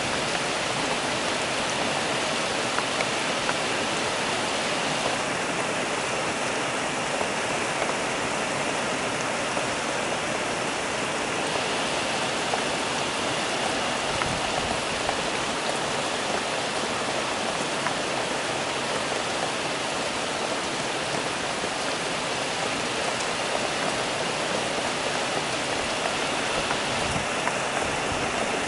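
Heavy rain falling steadily on rooftops and pavement: an even, unbroken hiss of a downpour.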